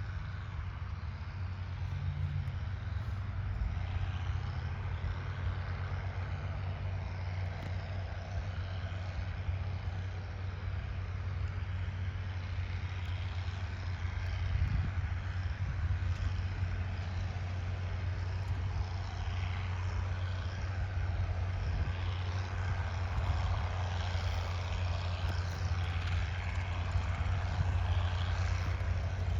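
Crawler tractor engine running steadily with a deep, even hum.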